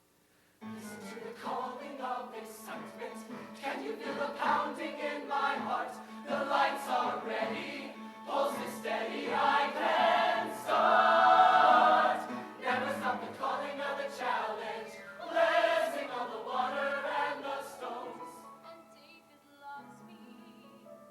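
High school show choir singing, starting suddenly about half a second in. The singing builds to a loud held chord near the middle, then fades toward the end.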